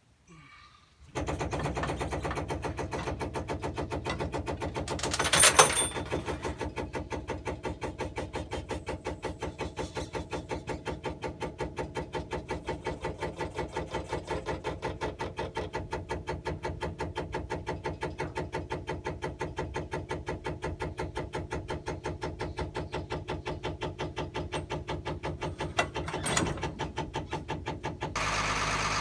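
The LMTV M1078's cab-tilt/spare-tire hydraulic pump starts up and runs steadily with a fast, even pulsing as it lowers the spare tire. There is a louder clank about five seconds in and another near the end.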